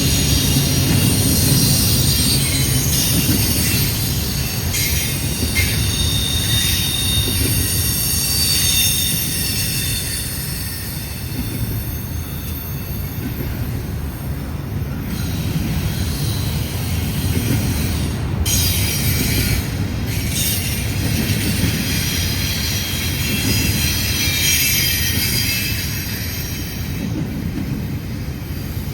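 Freight train cars rolling past with a steady low rumble and high wheel squeal. The squeal fades around the middle and returns strongly later.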